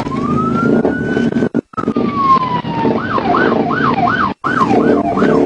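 Police car siren sounding a slow rising and falling wail, switching about three seconds in to a fast yelp of about three sweeps a second, over the patrol car's engine and road noise. The sound cuts out briefly twice.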